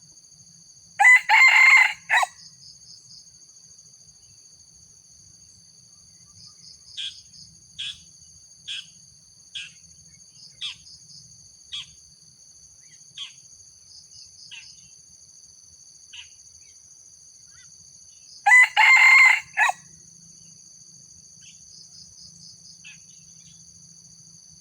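A junglefowl rooster gives two short, clipped crows, one about a second in and one near the end. Between them comes a run of short sharp clucks, about one a second, growing fainter. A steady high insect chorus runs underneath.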